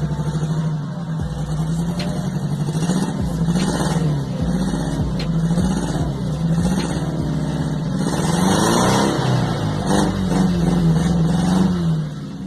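Volkswagen Gol's 1.0 CHT four-cylinder engine revved repeatedly through an exhaust with a washer fitted inside the pipe for a sportier note. Its pitch rises and falls several times, peaking about eight to nine seconds in, then drops back near the end.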